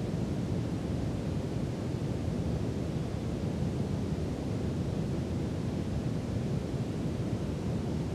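Steady brown noise: an even, deep hiss with most of its weight in the low end, unchanging throughout.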